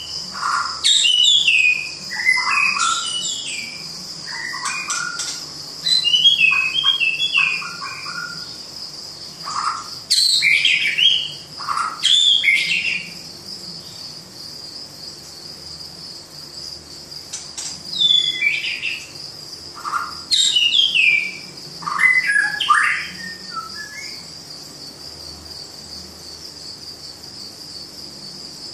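Birds calling in bouts of loud, falling whistled notes over a steady high-pitched insect drone; the calls stop about three-quarters of the way through, leaving only the insects.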